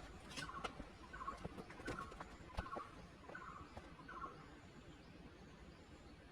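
A bird calling in a steady series of short, rough notes, about three every two seconds, which stop a little after four seconds in. Scattered light clicks sound alongside.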